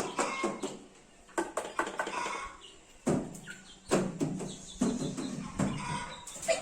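Pet parrot making a string of short chirps and calls, mixed with sharp clicks.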